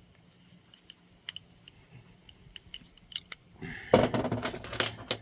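Small metal parts clicking and clinking as they are handled: scattered light ticks at first, then about a second and a half of dense, louder rattling near the end.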